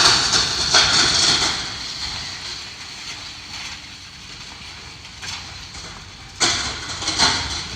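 Building demolition: debris crashing and clattering down as a section of the school is pulled apart. A loud crash at the start with smaller hits about a second in, a quieter stretch, then another sudden crash about six and a half seconds in.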